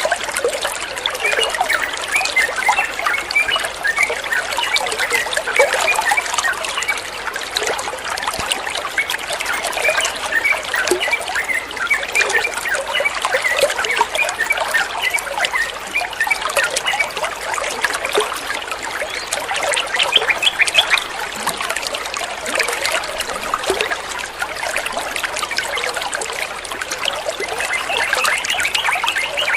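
Water trickling and bubbling, steady and continuous.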